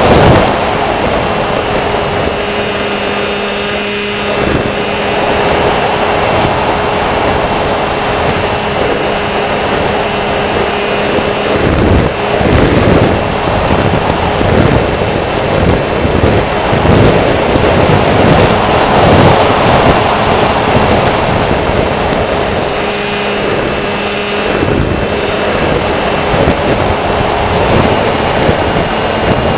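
Electric motors of a radio-controlled model aircraft running steadily with a high whine, under a loud, gusting rush of air noise on the microphone.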